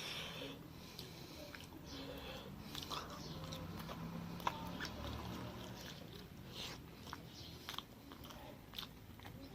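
A person chewing and biting food close to the microphone, with scattered short mouth and food clicks.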